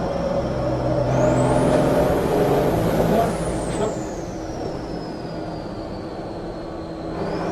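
Race truck's turbo-diesel engine pulling under power, with a high whistle that climbs in pitch about a second in and holds. From about three seconds in the whistle slides steadily down and the engine quietens as it eases off.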